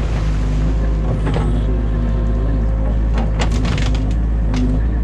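Excavator diesel engine running steadily, heard from inside the cab, with sharp cracks of branches snapping several times, the densest cluster about three seconds in.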